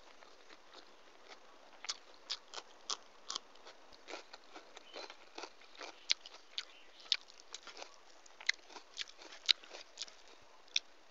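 Close-miked chewing of a mouthful of rice: a run of short, wet mouth clicks and smacks, a few a second.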